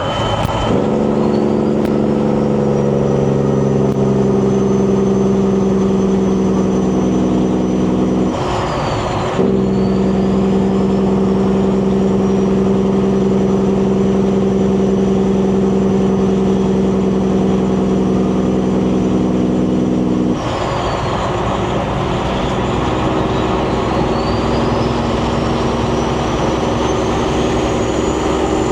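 Semi truck's diesel engine pulling steadily under load, heard from inside the cab. Its note drops out and picks up again twice, about a third and two-thirds of the way in, as gears are changed. A high turbo whistle climbs after each shift.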